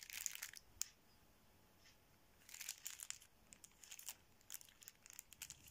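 Faint handling noise: scattered light clicks and crinkly rustling, with quiet gaps between.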